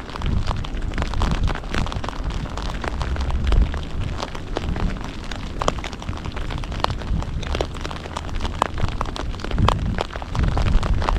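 Heavy rain falling, with many individual drops striking close to the microphone as sharp clicks over a steady hiss and a low rumble.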